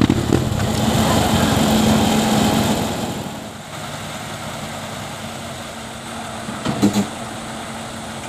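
Truck engine running, loud for about three seconds and then fading to a lower steady hum, with two short sharp sounds close together about seven seconds in.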